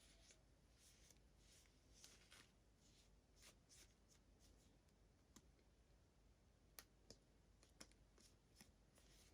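Faint rustling of hands handling small toy packaging, broken by several light, sharp clicks, as in a quiet unboxing.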